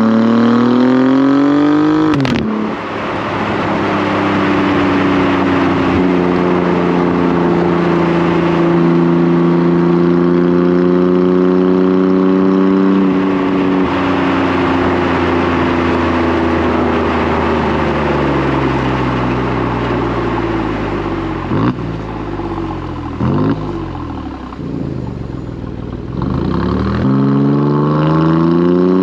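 Stock exhaust of a 2018 Alfa Romeo Giulia Quadrifoglio's twin-turbo V6 under way, close to the tailpipes: revs climb and break with a sharp crack at a gear change about two seconds in, then hold fairly steady. Later the revs fall away with a couple of sharp cracks as the car slows, and climb again near the end.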